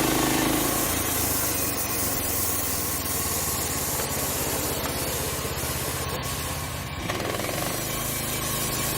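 Portable band sawmill with a 13-horsepower Briggs engine running as the blade cuts through a log, a steady noisy sound; it changes abruptly about seven seconds in.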